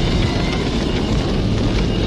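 A train running at speed: a loud, steady noise over a low drone.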